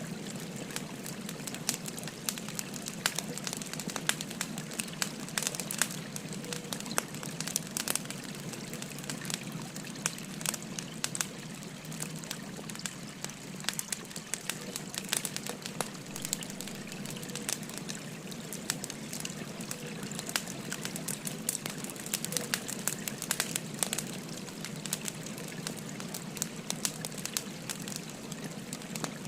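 Wood fire crackling with frequent sharp, irregular pops, over the steady rushing burble of a river.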